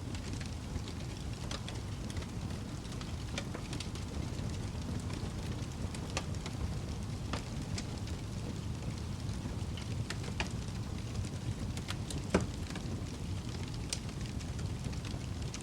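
Wood fire burning in a fireplace: a steady low rumble of flames with scattered crackles and small pops, one louder pop about twelve seconds in.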